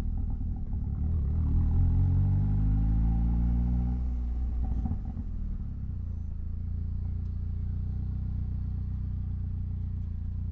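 Mitsubishi Lancer Evolution X's turbocharged 2.0-litre four-cylinder engine running loud, its note falling as the revs drop about three to four seconds in. It then settles to a steady, quieter low running from about five seconds on.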